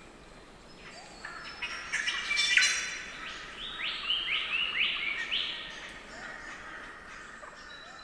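Spangled drongos calling amid other rainforest birds: a loud cluster of harsh, jangling notes about two seconds in, followed by a quick run of five rising notes, over steady chattering from other birds.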